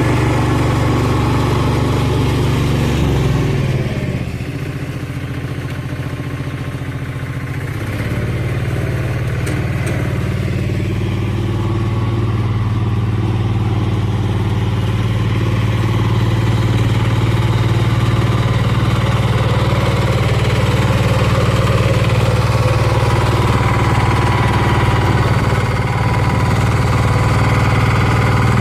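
Valpadana 4RM 180 mini tractor's diesel engine running steadily. About three to four seconds in, the engine drops to a lower, quieter speed, then picks back up about eight seconds in and holds steady.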